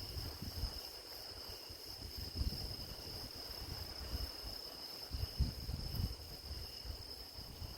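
A chorus of grass insects (crickets) chirring in a steady, high, even tone. Intermittent low rumbles come through, strongest about two and a half seconds in and again around five to six seconds.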